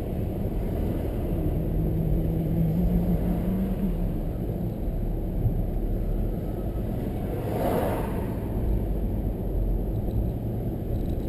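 Steady low rumble of a car driving, with engine and tyre noise heard from inside the car. There is a brief swell of rushing noise about eight seconds in.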